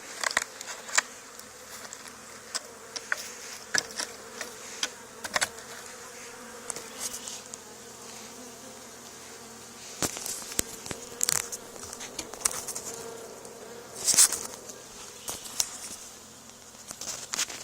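Honey bee swarm buzzing steadily in a low, even hum, with frequent brief sharp crackles over it, the loudest about a second in and near fourteen seconds in.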